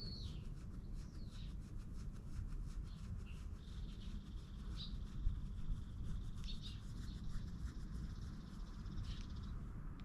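Small wild birds chirping, one holding a long high call for several seconds in the middle, over a light scratchy rustling.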